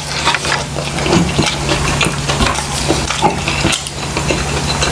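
Close-miked chewing of a mouthful of fried rice, with many small wet mouth clicks, over a steady low hum.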